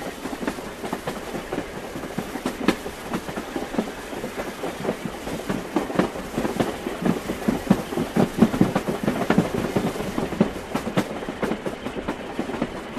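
Train wheels clattering rapidly over the rail joints as the train runs along the track, a continuous clickety-clack.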